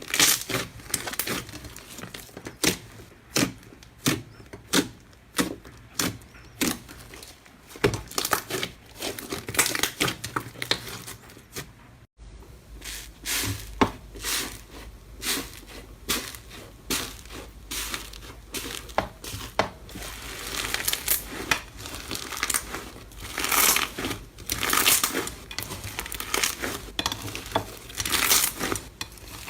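Slime being squished and poked by hand close to the microphone: a dense run of short, sharp clicks and pops, then after a sudden cut about twelve seconds in, broader squishes about once a second.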